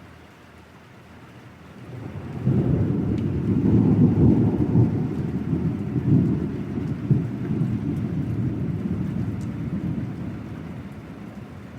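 A long peal of thunder rumbles in about two seconds in, peaks over the next few seconds and slowly dies away, over steady rain with scattered drops ticking.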